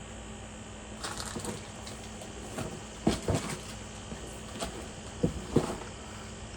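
Handling of a packaged candy: scattered sharp crinkles and clicks in small clusters, about one, three and five seconds in, over a faint steady hum.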